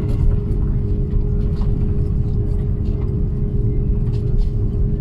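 Steady low vehicle rumble with a constant droning hum.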